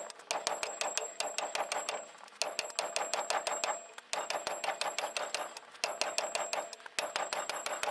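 Ratchet wrench clicking in repeated strokes: runs of quick, even clicks, each about a second or more long, with short pauses between as the handle swings back.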